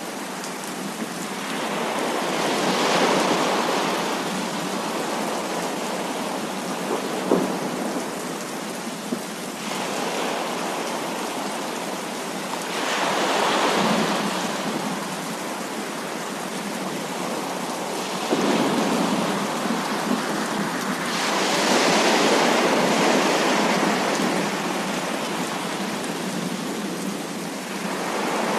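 Heavy rain falling steadily, with thunder rolling in several long swells that build and fade, and a couple of short sharp cracks.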